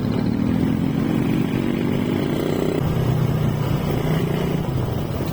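Motorcycle engine under way, its note rising as it accelerates over the first three seconds or so, then dropping back to a steady lower drone while cruising.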